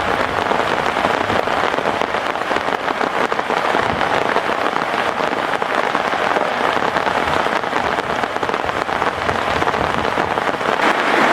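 Heavy rain falling steadily: a dense, even hiss of many drops striking.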